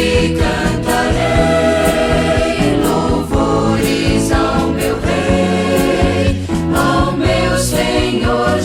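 Gospel music: a vocal group singing in harmony over a band with a steady drum beat.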